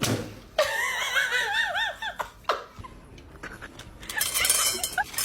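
A burst of high-pitched laughter, a quick run of rising-and-falling ha-ha notes lasting about a second and a half, followed by a single knock and a louder, noisier stretch near the end.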